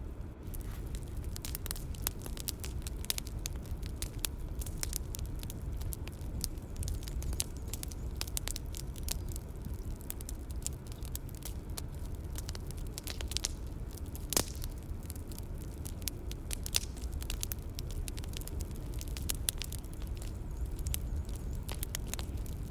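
Bonfire crackling and popping over a steady low rumble of flames, with one sharper pop a little past the middle.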